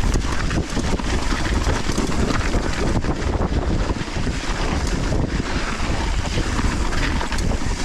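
Wind rushing over the GoPro's microphone on a fast downhill mountain-bike run, mixed with the tyres on the dirt trail and the bike clattering over bumps.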